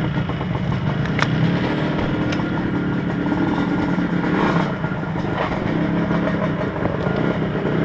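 Dirt bike engine running at low, fairly steady revs on a rocky trail, with a couple of sharp clicks in the first few seconds.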